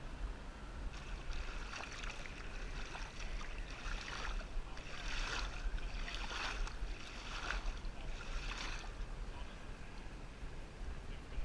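Kayak paddle strokes dipping and splashing in the water, roughly once a second, then stopping near the end, over a low wind rumble on the microphone.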